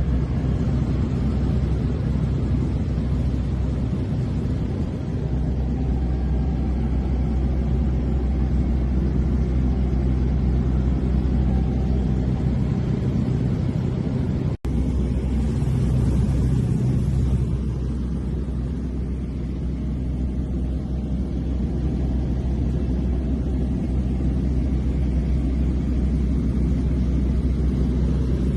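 Small airplane's engine and propeller running steadily, a constant low drone heard from inside the cockpit, with a split-second break about halfway through.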